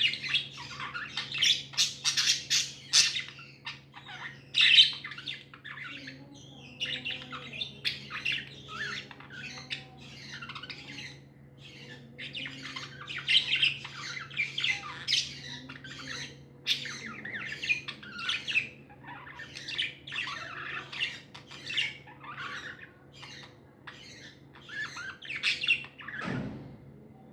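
Several pet budgerigars chirping and chattering in a continuous stream of quick chirps and squawks, with a faint steady low hum underneath.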